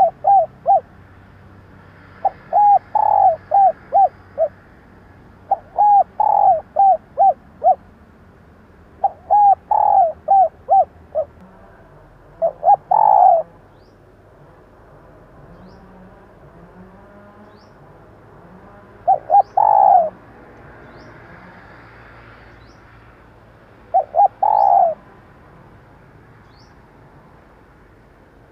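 Female spotted dove cooing in short phrases of several quick coos, repeated with pauses that grow longer in the second half. This is the female call used to stir a male dove into calling.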